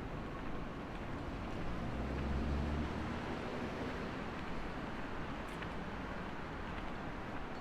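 City street ambience: a steady rumble of traffic. A passing vehicle's low engine rumble swells about two seconds in and fades by three.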